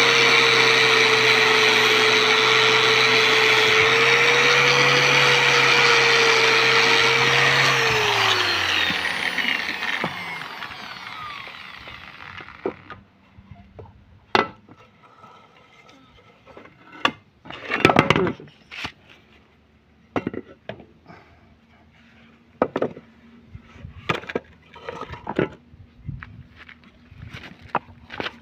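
Electric angle grinder fitted with a wire brush running at full speed, its wire brush scrubbing rust and crust from a motorcycle exhaust header, with a steady whine. About eight seconds in it is switched off and the whine falls away as it spins down; after that come scattered knocks and clicks.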